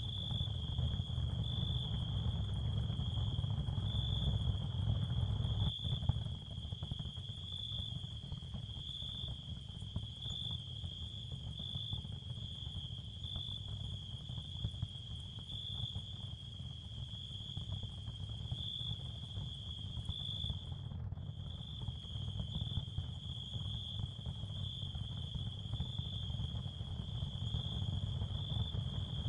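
Ambient sound-field track of crickets chirring steadily in an even, pulsing chorus over a constant low rumble, with the chirring breaking off for a moment about three quarters of the way through.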